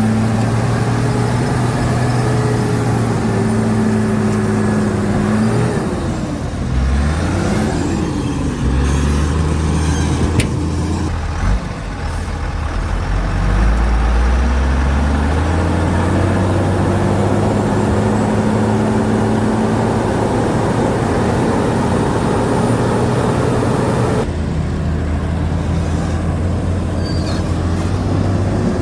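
A bulldozer's diesel engine runs steadily. A few seconds in, its pitch sags and wavers, then drops low for several seconds before climbing back up to a steady run, as the engine works under load. There is a single sharp click about ten seconds in.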